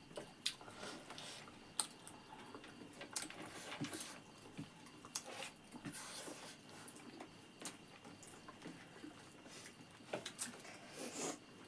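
Close-up eating sounds of people eating rice and chicken curry by hand: chewing and lip smacks, with fingers squishing and mixing rice on a plate, as short scattered clicks at uneven intervals.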